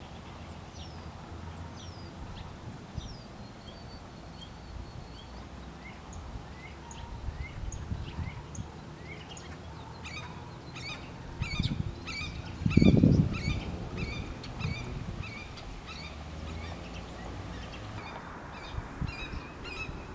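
Red-shouldered hawks giving a long series of repeated, loud calls that come faster from about ten seconds in; the species calls this way when disturbed. A low rumble of wind or handling on the microphone about two-thirds of the way through is the loudest moment.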